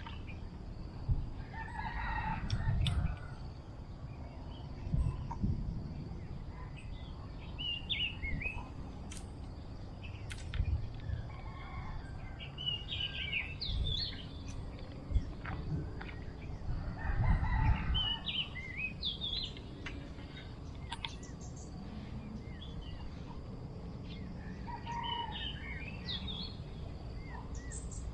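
A rooster crowing a few times, with small birds chirping in between. Low thumps and rumble run underneath.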